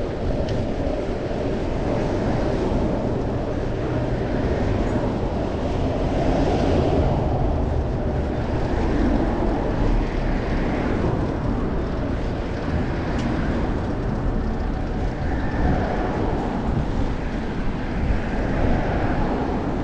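Steady rush of wind buffeting a GoPro's microphone while riding a bicycle, with a constant low road and traffic noise underneath.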